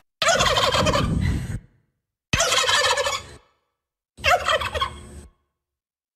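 Domestic turkey gobbling: three gobbles of a second or so each, separated by dead silence.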